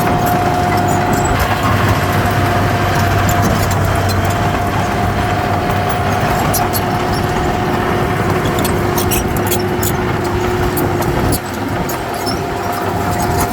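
Heavy earthmoving machinery running, a diesel engine's steady noise with a high steady whine over it and scattered sharp clicks and clanks; the noise drops a little about eleven seconds in.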